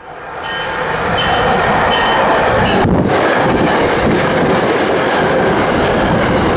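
Commuter train passing close by at speed: a steady, loud rumble of wheels and cars on the rails that rises over the first second. A few short high-pitched tones sound in the first three seconds.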